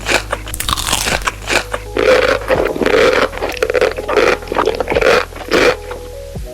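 Eating sounds close to the microphone: a run of loud, irregular mouthfuls, quickest and loudest in the second half at about two a second.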